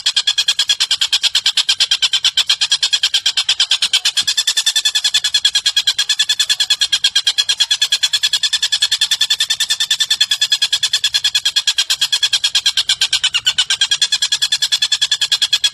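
Recorded bird call: a rapid, very regular trill of high chirps, about seven a second, running on without a break.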